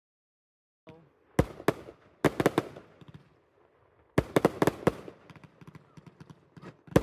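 Fireworks going off: starting about a second in, two single bangs and then quick volleys of sharp cracks in bursts.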